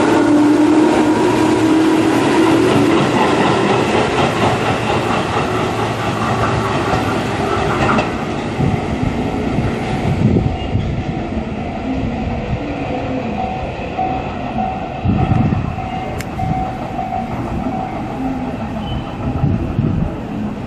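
Electric commuter train on the Tobu Noda Line running by. A steady motor whine is strongest at first, then wheel and rail noise with irregular knocks fades gradually.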